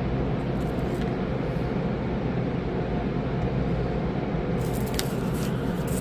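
Steady low hum and rumble heard from inside a car stopped in neutral in a car wash tunnel, with a few faint ticks and clicks near the end.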